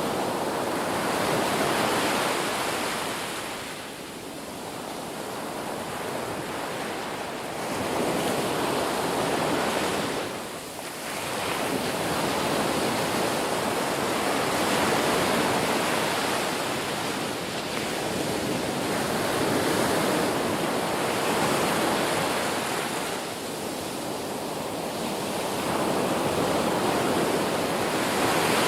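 Ocean surf: waves breaking and washing in a continuous, rushing hiss that swells and ebbs, with a few brief lulls between breakers.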